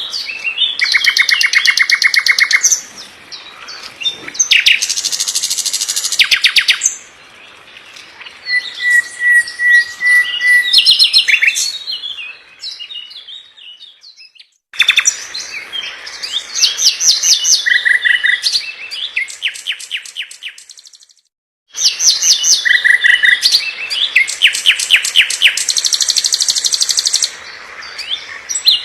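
Songbird song in dense, fast phrases: quick runs of rapidly repeated notes and trills with short whistled notes, high-pitched. It drops out briefly twice, about halfway through and about two-thirds of the way through.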